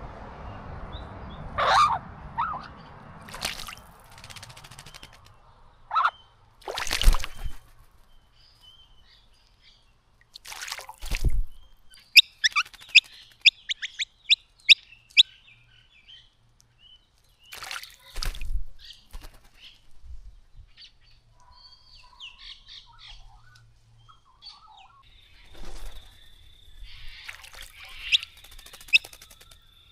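Small birds bathing in a bird bath: a series of short water splashes and wing flutters, several seconds apart, with a run of quick, sharp chirps in the middle.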